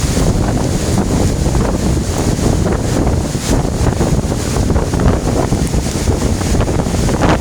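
Strong wind buffeting the microphone: a loud, steady rumble with gusty rushing over it, and no engine or voice standing out.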